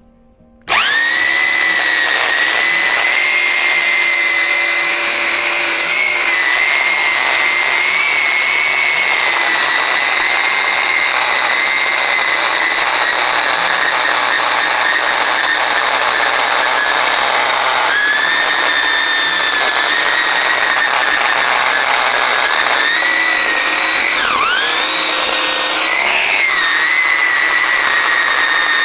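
DekoPro 8-amp corded electric chainsaw starting up about a second in and running at full speed with a steady high whine as it cuts through a live tree branch. Its pitch sags and recovers a few times, most clearly near the end, as the chain bites under load.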